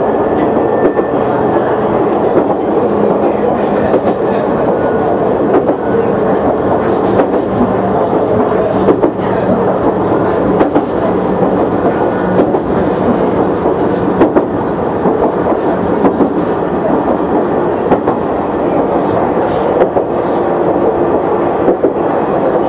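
KiHa 100 diesel railcar running along the line, heard from on board: a steady engine drone with wheels clicking over rail joints.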